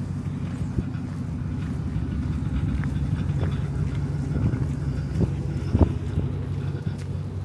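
A road vehicle's engine running close by, a steady low hum that swells through the middle and eases off near the end, with a few sharp knocks.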